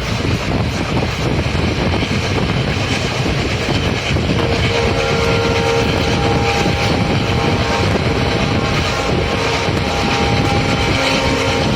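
Express passenger train running at speed, heard from on board: a steady rumble and rush of wheels on track and wind. About four seconds in, a steady high tone with several pitches joins it and holds nearly to the end.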